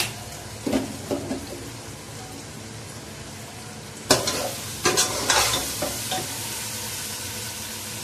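Arbi (taro) and potatoes frying in masala in a large metal pot, stirred with a slotted metal spoon: the spoon scrapes and clatters against the pot about a second in and again, louder, from about four to six seconds, over a steady sizzle.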